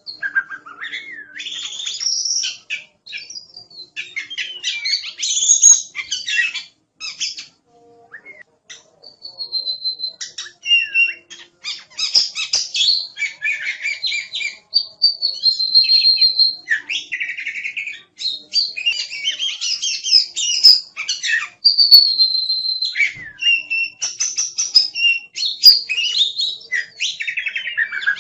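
Oriental magpie-robin (kacer) in full song: a long, varied run of clear whistles, sliding notes and rapid chattering phrases. Several held whistles stand out, and there are short pauses between the phrases.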